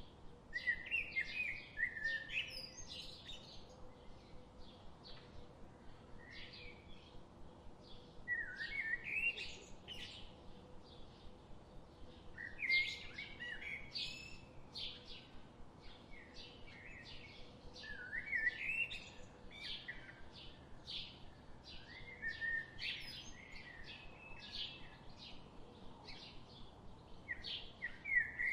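Forest birdsong: a short warbling song phrase repeats about every four to five seconds, with a steady run of short, high chirps between the phrases.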